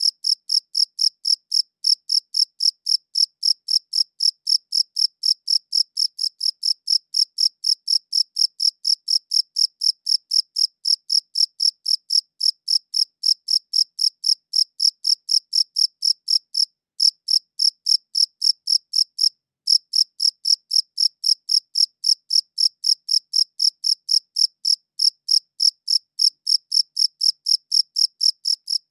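A cricket chirping close up in a steady, even rhythm of about three high-pitched chirps a second, breaking off briefly twice past the middle.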